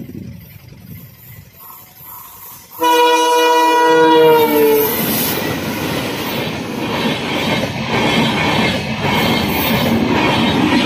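Horn of twin WDG3A diesel locomotives sounding once for about two seconds, its pitch sagging slightly at the end. Then the locomotives and the express's coaches run past with a loud, steady rush of wheel and rail noise.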